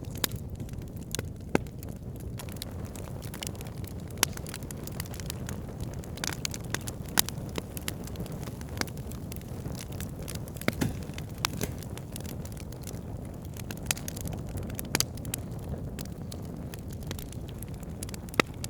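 Wood campfire burning with a steady low rush of flame and scattered crackles, a few sharper pops standing out.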